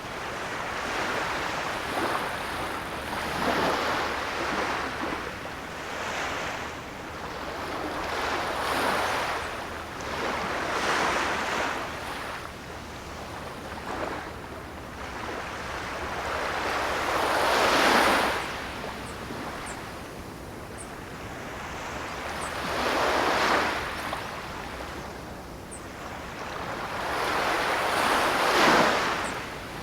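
Ocean surf: waves washing in one after another, each swelling and fading over a few seconds. The biggest surges come about two-thirds of the way in and near the end.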